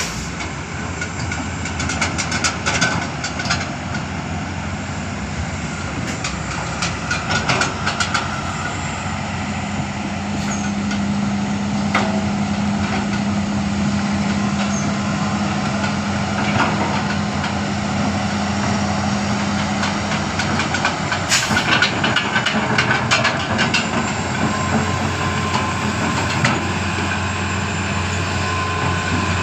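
Heavy truck engine running steadily under load, its drone growing stronger for a stretch in the middle, with scattered clicks and rattles over it.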